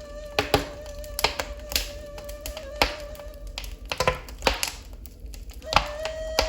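Wood fire in a fireplace crackling, with irregular sharp pops, over a held ney flute note that fades out and comes back near the end.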